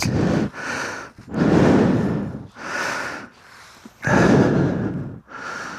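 A person breathing hard and close to the microphone, slow deep breaths in and out, each a rush of air lasting up to about a second.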